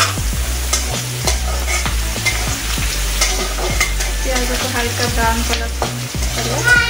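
Sliced onions, green chillies and cumin sizzling in hot oil in an aluminium kadai, with a steel spatula stirring and scraping against the pan in repeated short clicks.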